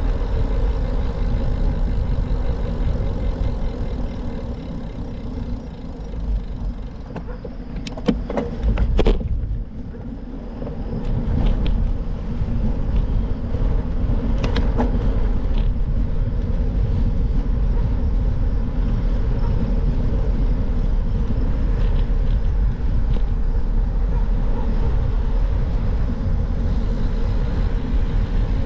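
Wind on the microphone and road noise from a bicycle being ridden: a steady low rumble that eases for a few seconds about a third of the way in. A few sharp clicks come around that point and again about half way.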